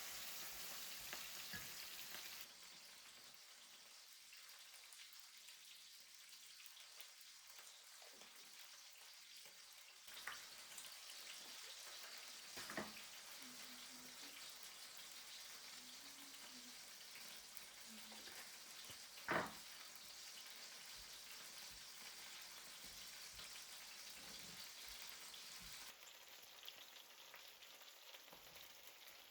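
Faint steady sizzle of food frying in a pan, with a few soft knocks, likely from utensils, scattered through it.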